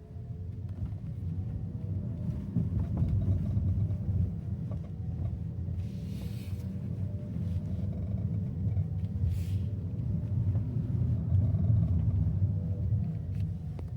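Kia EV3 electric car heard from the cabin while driving: a steady low road and tyre rumble that builds over the first couple of seconds and eases near the end, with a faint electric-drive whine drifting in pitch. A few light clicks and two short hisses about six and nine seconds in sound over it.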